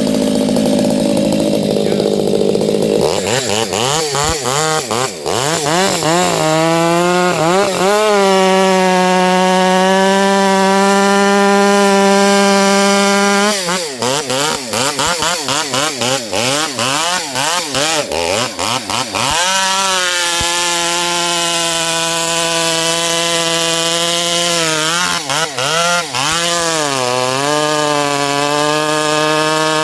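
Gas chainsaw cutting into a large maple log. The engine revs up, holds at high speed in the cut for several seconds, and its pitch then sags and rises repeatedly as the chain loads and unloads in the wood.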